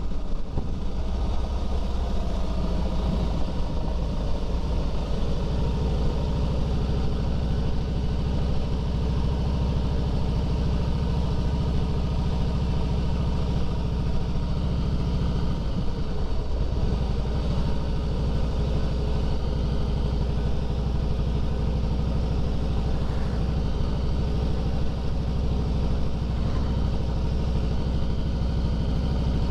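Harley-Davidson Fat Boy's V-twin engine running steadily at low speed while riding slowly, its note dipping briefly about halfway through.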